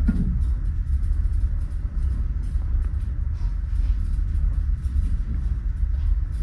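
A steady low rumble with an unsettled, gusting texture and no clear tone.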